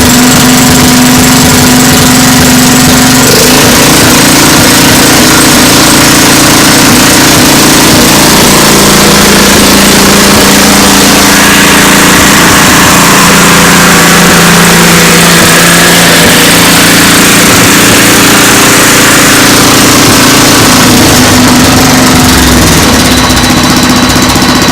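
Kohler Command Pro 8 hp single-cylinder horizontal-shaft engine running fast and even, without missing. Its note sinks somewhat through the middle and comes back up near the end.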